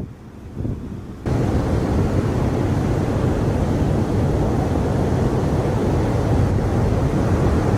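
Strong hurricane wind buffeting the microphone over crashing surf, with a steady heavy rumble of noise. The gusting is lighter for about the first second, then jumps suddenly to full strength and holds.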